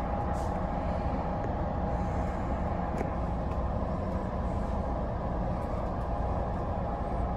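Amtrak Pacific Surfliner bi-level coach in motion, heard from inside the upper level: a steady low rumble with a constant hum over it.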